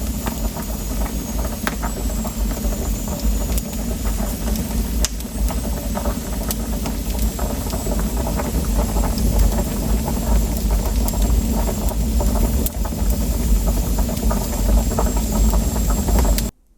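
Pots of meat stew boiling hard over a wood fire: a steady bubbling rumble with scattered crackling pops. It cuts off suddenly near the end.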